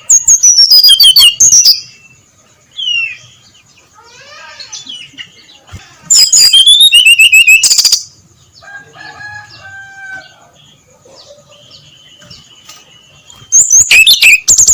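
Brown-chested jungle flycatcher singing: three loud bursts of quick, gliding whistled phrases, each about two seconds long, near the start, in the middle and near the end, with softer chirps and calls between them.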